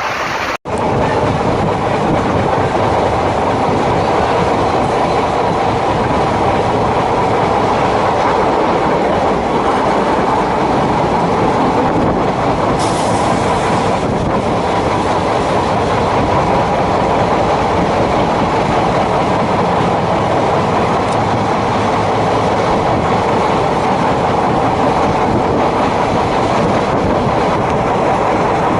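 DEMU (diesel-electric multiple unit) train running along the line: a steady, loud rumble of wheels on rail and running noise, after a brief dropout about half a second in.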